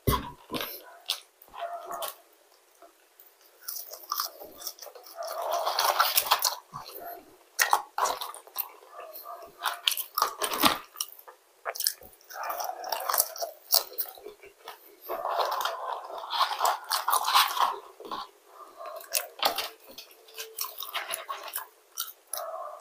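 Close-up chewing and crunching of McDonald's fries and chicken, picked up by a clip-on microphone, with many sharp, irregular mouth clicks.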